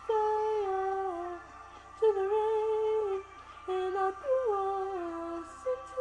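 A female voice humming a wordless melody, long held notes stepping up and down in pitch with short breaks between phrases.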